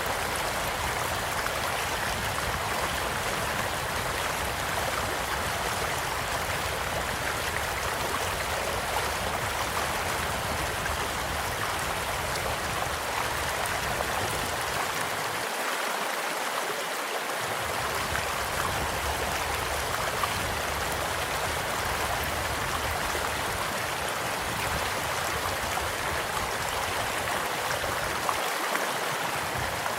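Small stream flowing steadily with an even rushing babble, and a campfire giving a few faint crackles over it.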